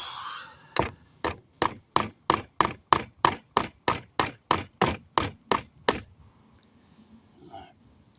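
Hammer striking a nail in a pallet plank: a steady run of about seventeen ringing blows, roughly three a second, that stops about six seconds in.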